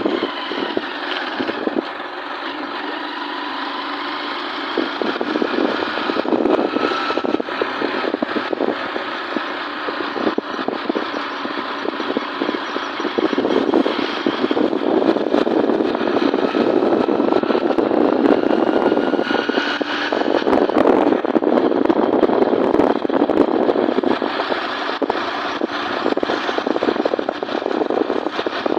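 A vehicle running steadily, with continuous road and engine noise, loudest from about halfway on.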